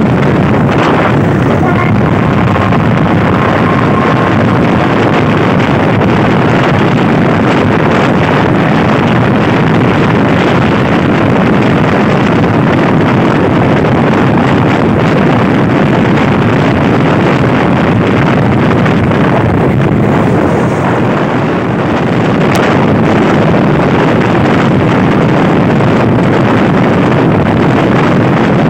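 Thai passenger train running at speed, heard from an open carriage window: a loud, steady rush of wind buffeting the microphone mixed with the running noise of the carriage on the track.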